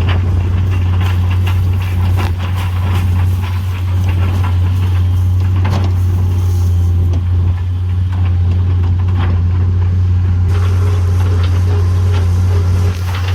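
A heavy machine's engine running steadily, with scattered knocks and cracks over it as the old barn's structure is broken apart.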